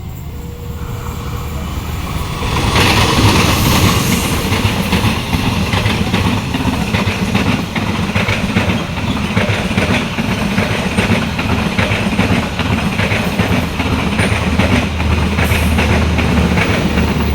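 Passenger train passing close by: its rumble builds over the first few seconds, then the wheels clatter rapidly and steadily over the rail joints as the coaches go past.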